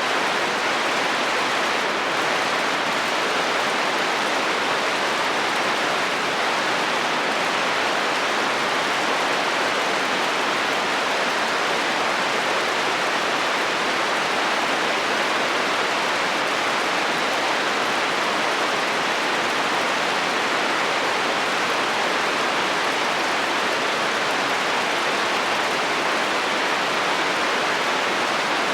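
Steady rain falling on a metal roof, an even, unbroken hiss.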